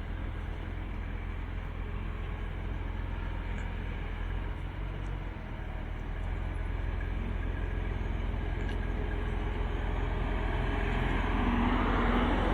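A car's engine and tyres with a steady low rumble, growing louder toward the end as the car comes close.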